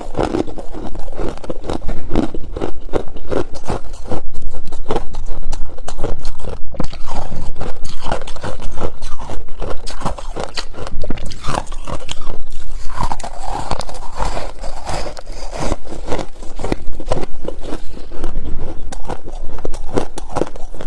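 Close-miked chewing of freezer frost: dense, rapid crunches, squeaky in places, as mouthfuls of frost are bitten and chewed.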